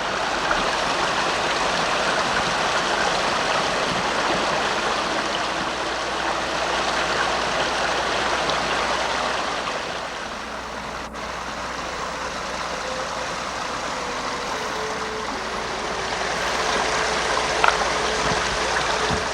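A creek running: a steady rush of flowing water, with one sharp click about eleven seconds in.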